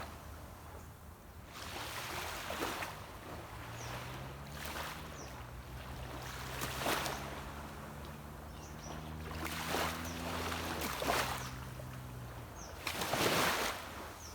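Small sea waves washing onto a beach every few seconds, with the low, steady hum of a distant boat engine underneath that comes in a few seconds in and fades near the end.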